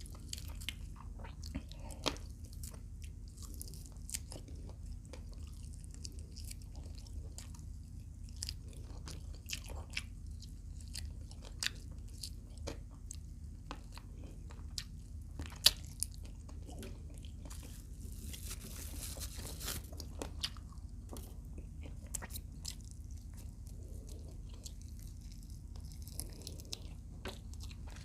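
Close-up eating of fried adobo quail: crunchy bites and chewing, with sharp crunches scattered throughout, the loudest about sixteen seconds in. A steady low hum runs underneath.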